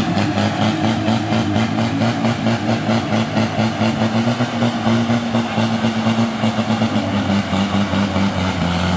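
Off-road race vehicle's engine running at a fairly steady pitch, easing down slightly near the end.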